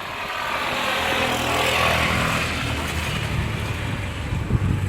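A vehicle engine running with a low, steady hum and a rushing hiss, growing louder over the first two seconds and then holding steady.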